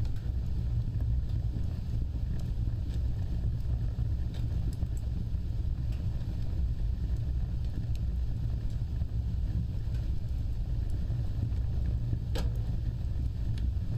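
Wood fire burning with a steady low roar of flames and sparse faint crackles, one sharper pop near the end.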